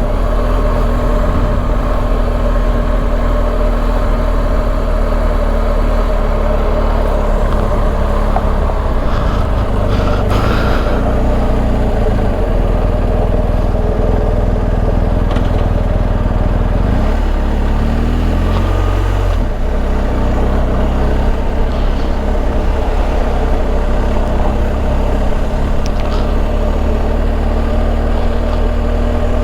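BMW R1250 GS Adventure's boxer-twin engine running as the motorcycle is ridden, a steady low rumble. The engine note changes pitch a little past halfway through.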